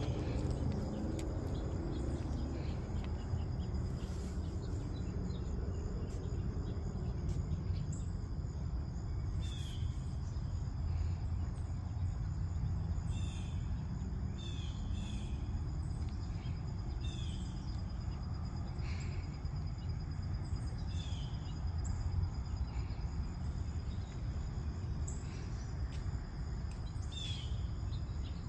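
Outdoor nature ambience: a steady high insect trill runs throughout, while short bird chirps come every second or two over a strong low rumble.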